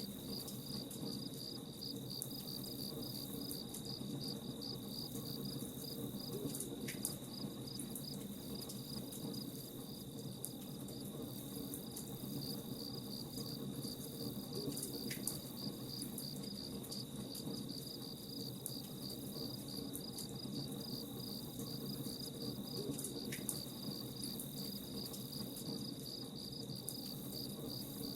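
Crickets chirping in a steady, even pulse over a constant low background, with scattered sharp crackles from a campfire.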